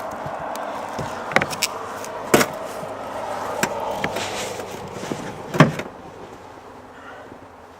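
Dodge pickup engine idling steadily, with several sharp knocks and clanks over it, the loudest about five and a half seconds in. The engine sound fades near the end.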